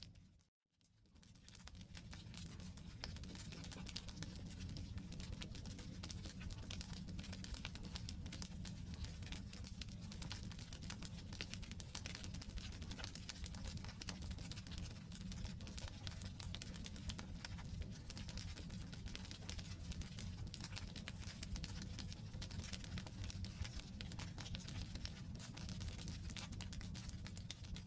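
Wood campfire burning, with a steady stream of small crackles and pops over a low rumble of the flames. About half a second in it fades briefly to near silence and comes back.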